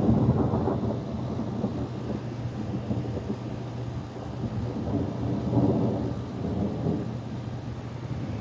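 Rolling thunder rumbling low, swelling at the start and again around five and a half seconds in.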